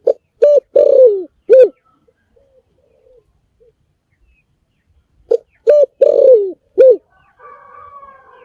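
Spotted dove cooing: two phrases of four coos, one at the start and one about five seconds in. Each phrase has a long, falling third note. Fainter coos from a more distant dove come in between.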